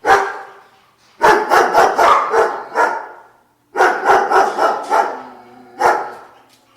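A dog barking: one bark, then two quick runs of barks several a second, and single barks near the end.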